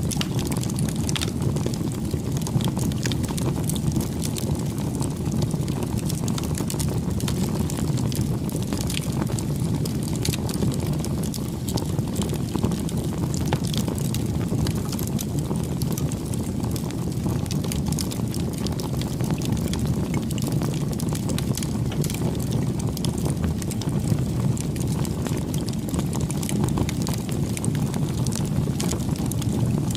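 Bonfire burning: a steady low rush of flames with scattered sharp crackles and pops of burning wood.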